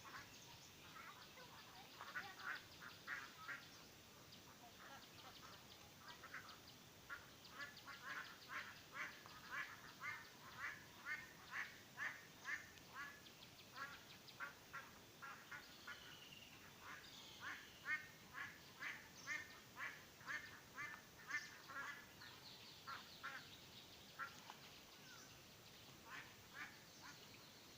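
Poultry calling: runs of short, repeated calls, about two a second, with a few thin, higher peeps among them.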